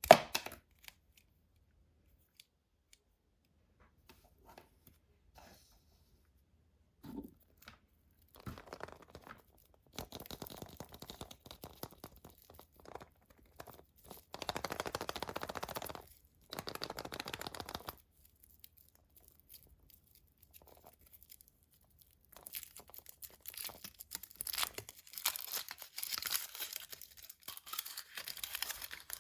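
A sharp click, then a wrapper being torn open and crinkled by hand in uneven bursts of crackling that come on about eight seconds in and grow denser near the end.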